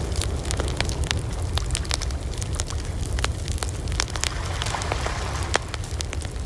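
Wood campfire crackling: frequent irregular sharp pops and snaps over a steady low rumble of the burning fire.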